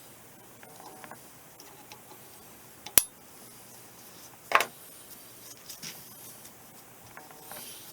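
Small metal clinks and taps from hand-tool work on a mower driveshaft's clamp yoke and U-joint, with two sharper metal strikes, one about three seconds in and one about halfway through that rings briefly.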